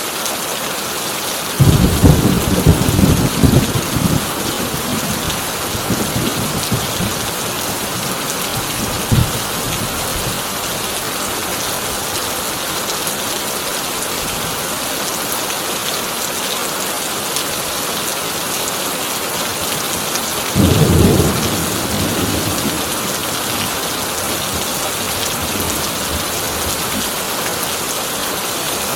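Heavy rain drumming steadily on a corrugated tin roof, with a loud rolling thunderclap about two seconds in that rumbles for a couple of seconds, and a shorter thunder rumble about two-thirds of the way through.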